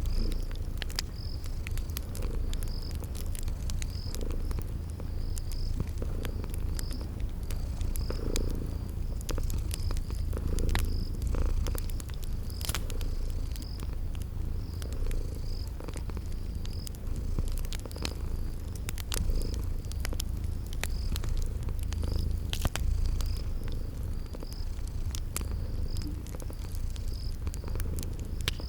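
Cat purring in a steady low rumble, layered with the sharp random pops of a crackling wood fire and crickets chirping at an even pace, a little over once a second.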